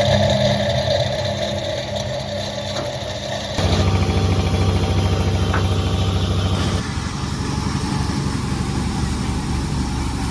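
Sawmill's engine running steadily, its sound shifting abruptly about a third of the way in and again past halfway.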